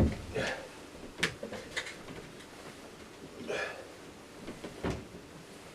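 Handling noise: a series of separate knocks and clicks, a thump at the start and another near the end, with a short rustle about three and a half seconds in.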